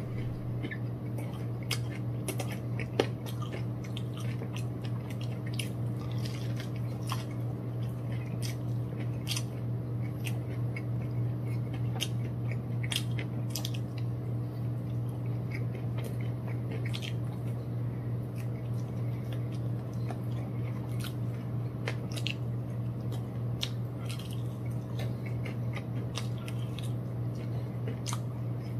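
Close-up chewing and biting of crispy fried chicken, with many short crackly crunches scattered throughout, over a steady low hum.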